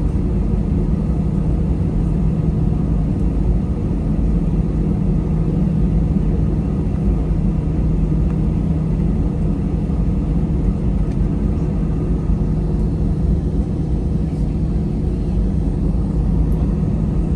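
Jet airliner heard from inside the cabin while taxiing: a steady low rumble and engine hum with no change in pitch or level.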